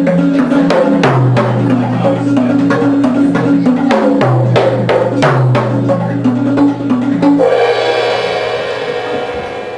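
Live percussion music: a rapid run of drum and wood-block strikes over a low pitched line that steps between notes. About seven and a half seconds in, the strikes stop and a sustained metallic ring takes over and slowly fades.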